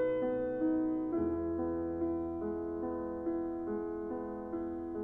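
Background piano music: a slow line of single notes, each struck and fading, about two a second, over a low held bass note that comes in about a second in.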